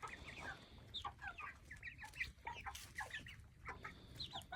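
A flock of chickens clucking softly while feeding, a steady scatter of many short calls.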